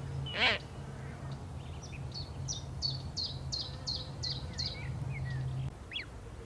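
Birds calling: one harsh call about half a second in, then a quick run of about eight high, thin, falling notes, then two short chirps near the end. A steady low hum runs beneath and stops shortly before the end.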